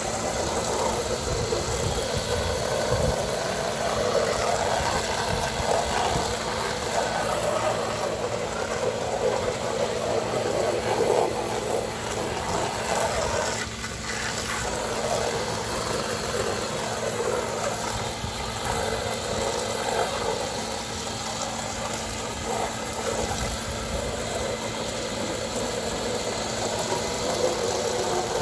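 Pressure washer running steadily while spraying water, with a brief drop in sound about halfway through.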